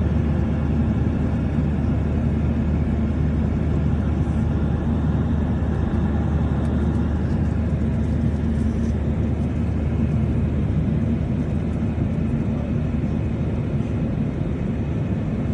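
Steady drone of an airliner cabin in flight: engine and airflow noise, low and unbroken throughout.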